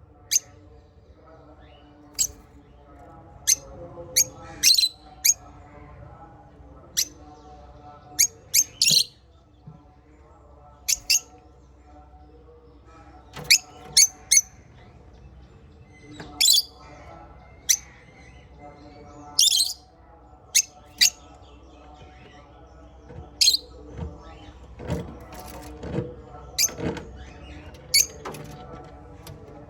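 Small caged parrots (lovebirds and budgies) giving short, sharp, high chirps every second or so, over a softer continuous background of chatter, with a busier run of calls near the end.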